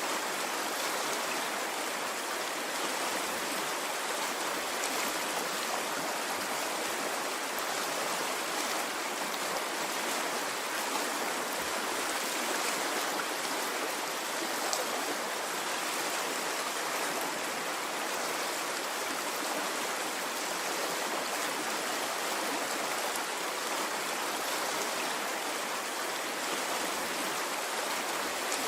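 A stream of running water flowing steadily, a continuous rushing without swells or breaks.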